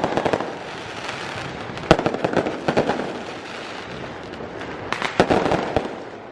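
Fireworks and firecrackers going off: clusters of sharp cracks and crackling, one about two seconds in and another near five seconds in, over a steady rumbling background.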